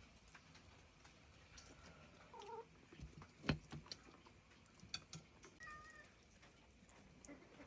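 Two short, faint animal calls over quiet background, with a sharp click or knock about halfway through that is the loudest sound.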